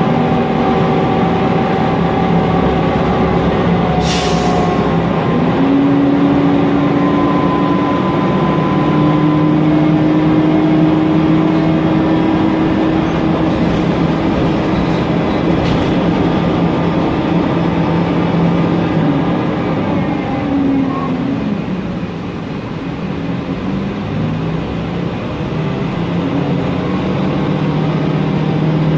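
Mercedes-Benz Conecto NGT bus running, with its OM936G turbo CNG engine and Voith DIWA automatic transmission whining in tones that rise and fall with speed. A short hiss comes about four seconds in.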